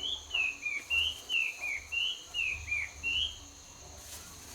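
A songbird singing a run of short, falling whistled notes, about two a second. Under it runs a continuous low rumble from the flooded sinkhole, which the angler takes for water being sucked down into an underground river.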